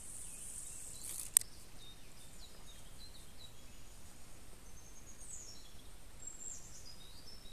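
Small birds chirping with short high calls and quick falling notes over quiet outdoor ambience. One sharp click about a second and a half in.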